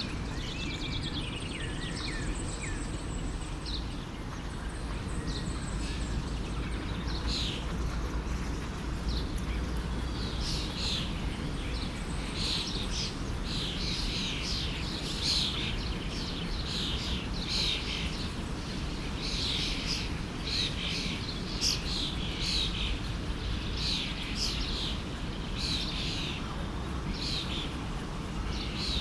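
Songbirds chirping and calling over the steady rush of a forest stream; the calls are sparse at first and come thick and fast from about a quarter of the way in.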